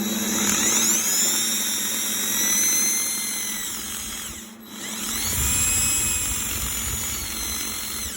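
Drill spinning a small drum sander against the wood, smoothing the small nib left at the edge of a routed hole. The whine rises as it spins up, runs about four seconds, stops briefly, then spins up and runs again for about three seconds.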